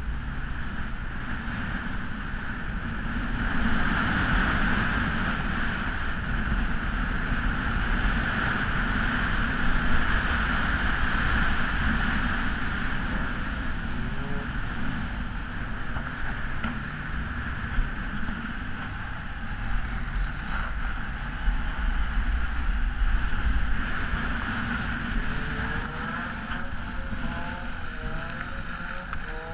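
Volvo car engine revving up and down as the car is driven hard and slid on snow, under a steady rush of wind noise on the microphone.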